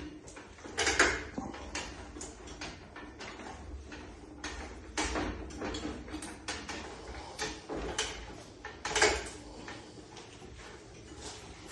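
Irregular clunks, clicks and rattles of metal hardware being handled, with louder knocks about one, five and nine seconds in.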